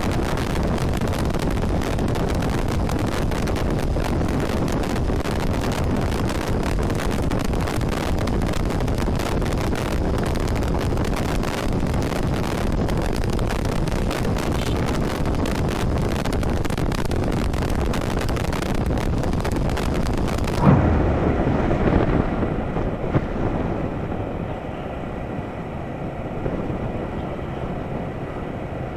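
Motorcycle riding at speed: heavy wind rush on the rider's camera microphone over engine and road noise. About two-thirds of the way through it cuts to a quieter, duller ride recording that opens with a sudden loud thump.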